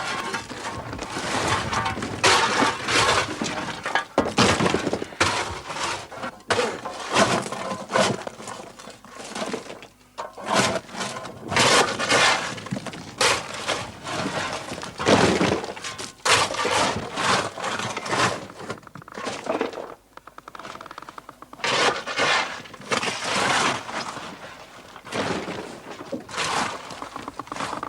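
Repeated smashing and crashing, with glass breaking and shattering over and over.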